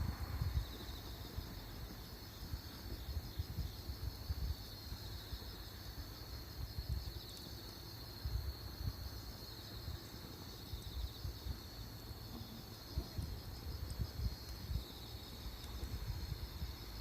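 Insects chirring steadily at a high pitch, a fast pulsing trill, over an uneven low rumble.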